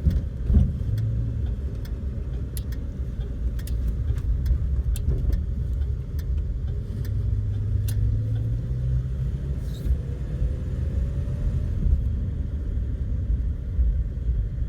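1970 Dodge Dart Custom heard from inside the cabin, its engine running as the car pulls away from a stop, with a slow rise in engine pitch in the middle of the run. The car has a hesitation on acceleration that the owner puts down to a carburetor of the wrong part number that rebuilding has not cured.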